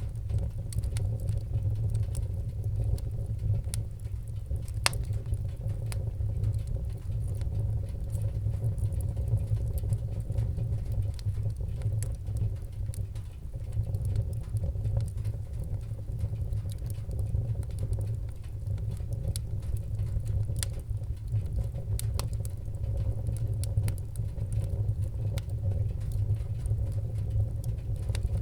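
Wood fire in a fireplace crackling, with sharp pops scattered irregularly over a steady low rumble of the flames.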